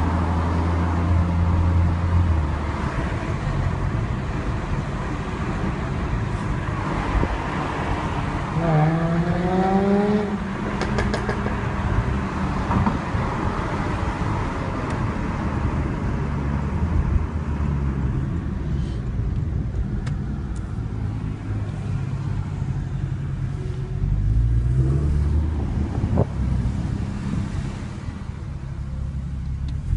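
Sports car engines running at road speed, heard from an open convertible driving alongside a Jaguar F-Type V6 S and its supercharged V6. There is a short rev that rises in pitch about nine seconds in, and another rising rev as the cars accelerate at the very end.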